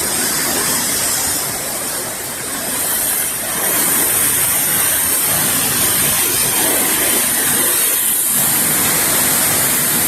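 Hurricane wind and rain, a loud, steady rush of storm noise that eases slightly and then swells back up about three and a half seconds in.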